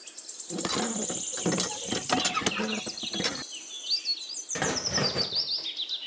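Songbirds chirping and trilling in many short, quick high calls, with a few light taps and scuffs of handling among them.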